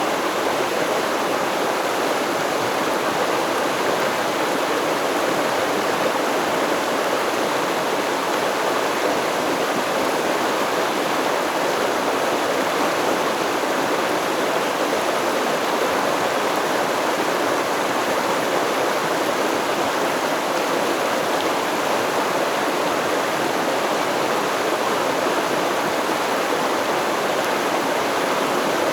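River stream water flowing, a steady, unbroken rush of running water.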